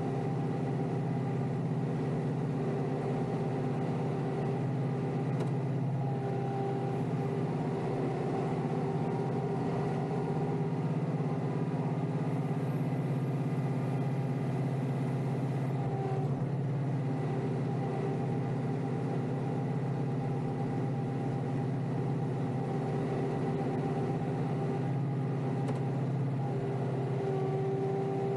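Kioti compact tractor's diesel engine running steadily at working speed while pushing snow, its pitch holding nearly level.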